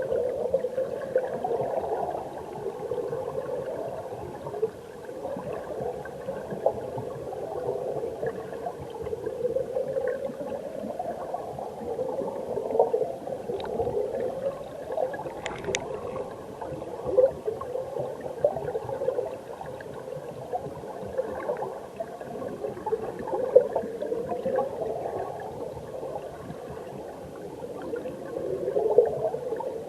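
Mountain stream water heard from a camera submerged in it: a continuous muffled gurgling and bubbling rush that swells and eases every few seconds. There are a couple of sharp clicks about halfway through.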